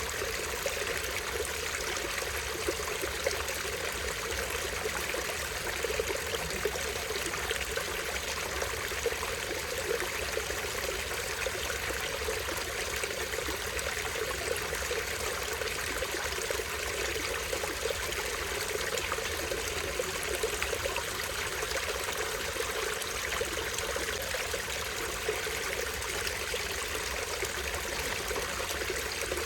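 Stream water trickling and splashing over a small waterfall in a steady, unbroken babble.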